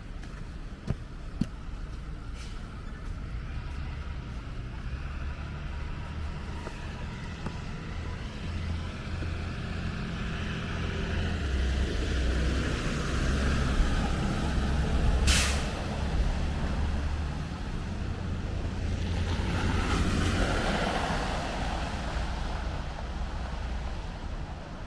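City street traffic: a heavy vehicle's engine rumbles nearby and gives one short, sharp air-brake hiss about fifteen seconds in. A vehicle then passes with a swelling rush of tyre noise.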